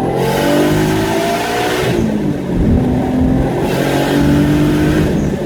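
Car engine accelerating hard through the gears: the pitch climbs, falls at a gear change about two seconds in, climbs again and falls at another shift near the end.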